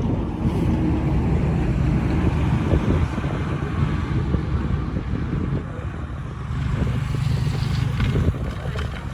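Diesel engine of heavy earthmoving machinery running steadily, louder and stronger for a couple of seconds about two-thirds of the way through.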